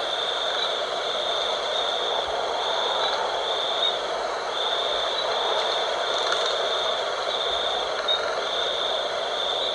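Night wind blowing steadily, with a high, even trill pulsing on and off about one and a half times a second above it.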